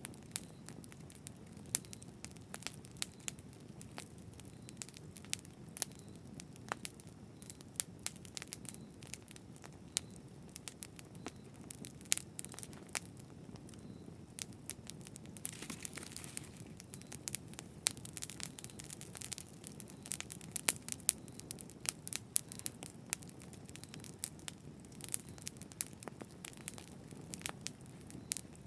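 Wood fire burning, with a steady low rumble and frequent irregular sharp crackles and pops. A brief hiss comes about halfway through.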